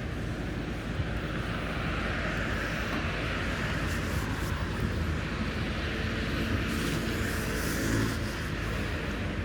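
City road traffic: a steady low rumble, with a passing vehicle's tyre and engine noise swelling over several seconds, loudest near the end, then easing.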